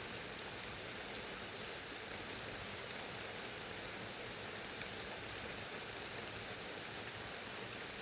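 Steady rain falling, with scattered drops ticking. Twice a short, high chirp sounds over it, about two and a half and five seconds in.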